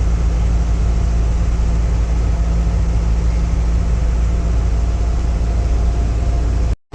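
Steady low engine rumble with a constant hum, unchanging throughout, cut off abruptly just before the end.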